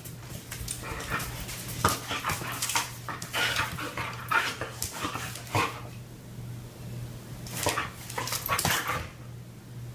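A dog barking and whimpering in short bursts: one run over the first few seconds and another near the end, over a steady low hum.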